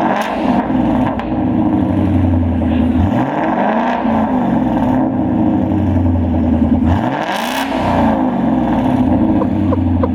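2018 Ford Mustang GT's 5.0 V8 running through a freshly fitted MBRP Race cat-back exhaust, idling and revved up and back down three times, about every four seconds.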